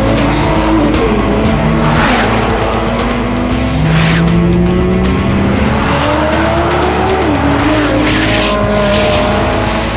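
Sports car engines with Akrapovič aftermarket exhausts being driven hard on a race track. The engine pitch climbs and drops repeatedly, with several short rushing bursts. Background music plays underneath.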